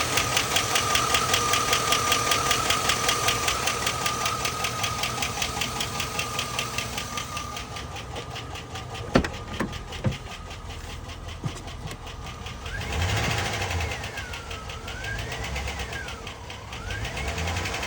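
2001 Chevrolet Silverado engine running with a fast, even lifter tick, which the owner takes for a stuck lifter. The ticking grows fainter after the first half, with a few sharp clicks in the middle.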